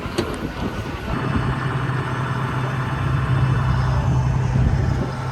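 A steady low machine hum with a constant pitch starts about a second in and holds, over a general background of noise.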